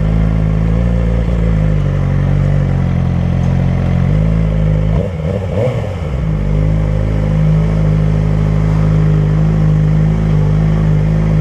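Suzuki GSX-R600 motorcycle's inline-four engine running at low speed, its pitch wavering briefly about five seconds in, then settling into a steady idle.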